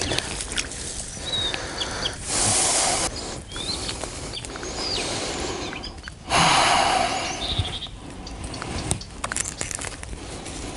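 Small birds chirping in short calls, over rough rustling noise that rises into two louder bursts, about two and six seconds in.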